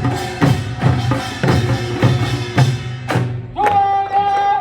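Korean folk music played live: drum strikes about twice a second, then a long steady held note begins a little past halfway.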